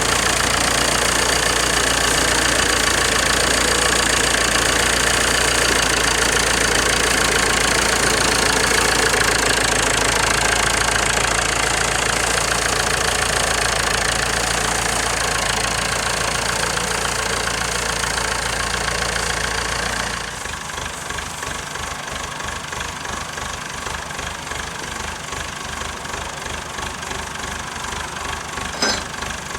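An engine running steadily. About two-thirds of the way through it drops abruptly to a quieter, lower idle with a regular low pulsing. A single sharp click comes near the end.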